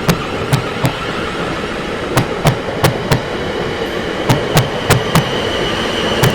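Train running past, its wheels clacking over the rail joints in quick pairs (clickety-clack) over a steady rushing rumble. A thin high squeal joins about four seconds in.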